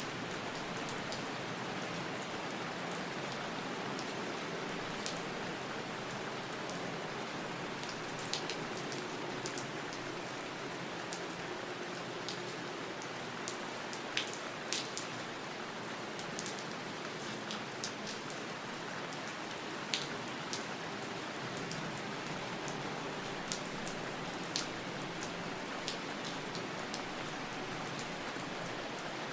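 Steady rain falling, an even hiss with separate drops now and then ticking sharply on a nearby surface.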